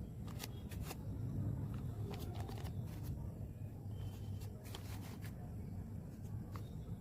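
Scattered light clicks and rustles, irregular and a dozen or so in all, over a steady low rumble.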